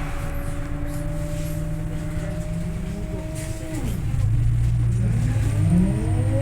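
Scania OmniLink I bus engine running steadily under way; about four seconds in the engine note drops sharply, as at a gear change, then climbs and gets louder as the bus accelerates.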